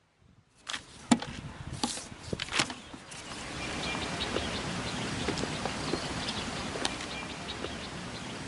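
Outdoor ambience: a few sharp knocks in the first seconds, then a steady hiss with faint high bird chirps over it.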